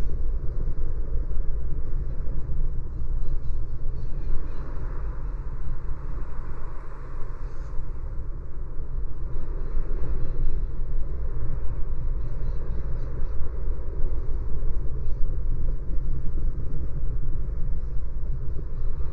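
Road noise of a car driving on a city street: a steady low rumble of tyres and engine that swells and eases slightly.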